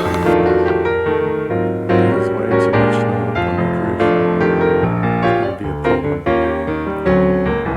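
Piano music with a run of notes and chords.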